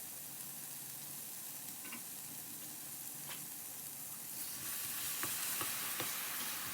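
Coconut milk and red curry paste sizzling in a hot pan with oil while being stirred, the utensil tapping the pan a few times. The sizzle grows louder about four and a half seconds in.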